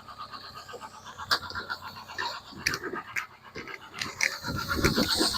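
Ford 2.0 Pinto single-overhead-cam inline-four idling with a fast, even pulse, while the ignition timing is being adjusted at the distributor. A few sharp clicks and a heavier low rumble come near the end.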